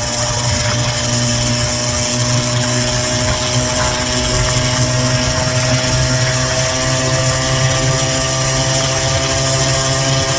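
Small gas scooter engine running steadily under way, its note slowly climbing in pitch.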